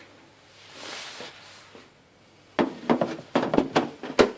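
Household items being rummaged through in a cupboard: a soft rustle, then a quick run of knocks and clatters starting about two and a half seconds in, the sharpest near the end.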